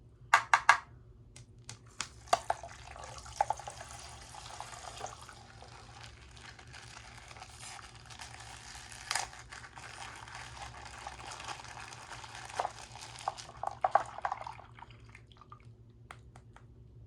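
Plastic bag of coloured water being broken open: liquid pouring and splashing out for about twelve seconds, with plastic crinkling and a few sharp taps, the loudest just after the start and near the end.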